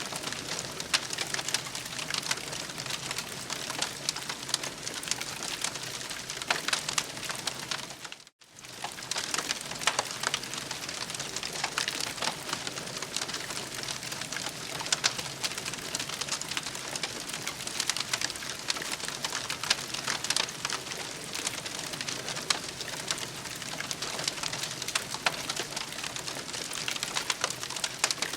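Crackling campfire: a steady hiss dense with small pops and snaps. The sound cuts out for a moment about eight seconds in.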